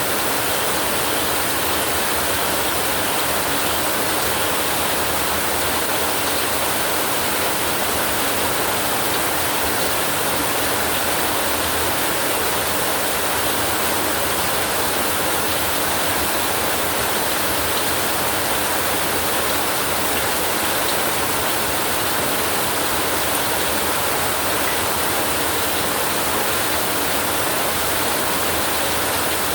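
Heavy rain falling steadily: an even, unbroken hiss that stays at the same level throughout.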